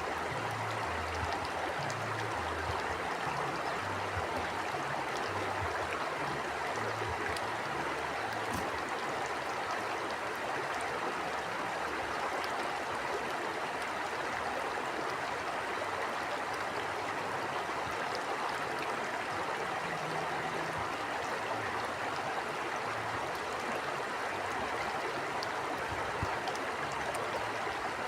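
A stream of water flowing steadily: an even, unbroken rush with no distinct events.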